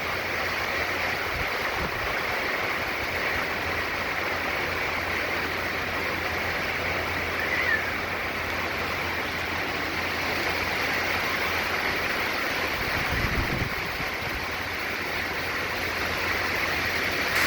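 Hurricane wind and heavy wind-driven rain: a steady rushing noise, with gusts buffeting the microphone, most strongly about 13 seconds in.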